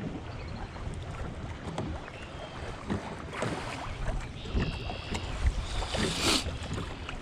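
Wind buffeting the microphone on a canoe out on open water, a steady low rumble with scattered small knocks and splashes. A short high chirp comes about halfway through.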